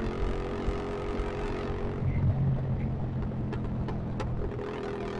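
Motorcycle engine running steadily through a loud aftermarket open (brong) exhaust while riding, the engine note swelling a little about two seconds in.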